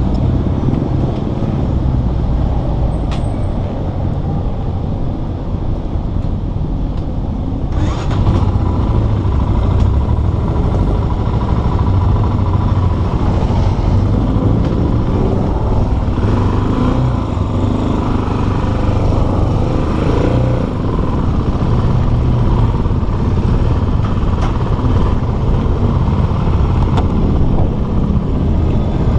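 Motorstar Cafe400's 400cc single-cylinder engine running as the motorcycle is ridden on the road, a steady low rumble that grows louder from about eight seconds in.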